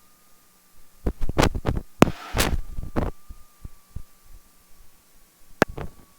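A run of sharp knocks and clicks, thickest in the first half and two more near the end, over a faint steady electrical hum.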